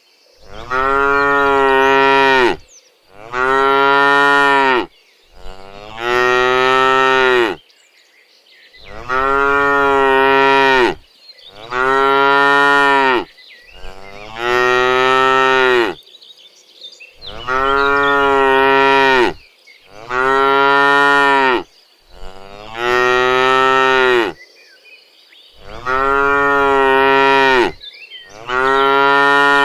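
Cattle mooing: long, loud calls of about two seconds each, dropping in pitch at the end. They come in runs of three with short breaks between.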